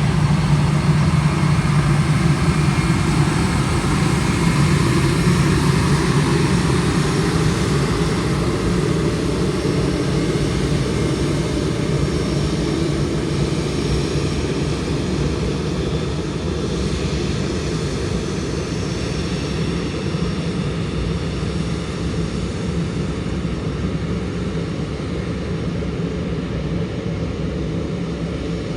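Airbus A320 jet engines running at taxi power: a steady low rumble with a faint high whine, slowly getting quieter.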